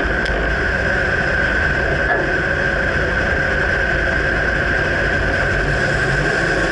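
Steady running noise of a 2009 Dodge Ram pickup: an even low rumble with a constant hiss, and no distinct clunk standing out.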